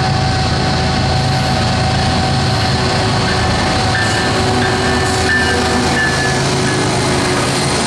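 Two BNSF diesel locomotives heading a grain train pass close by, their engines running with a loud, steady drone, and a high whine rising out of it while the lead unit goes past, followed by the wheels of the train rolling on the rail.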